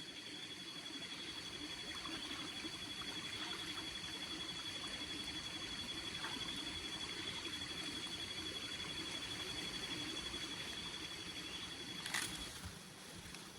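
Night forest ambience: insects calling in a steady high-pitched drone with a faint fast pulse, which stops about twelve seconds in, just after a short sharp click.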